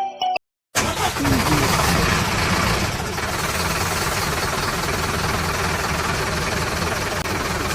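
Small electric motor running steadily, starting abruptly just under a second in.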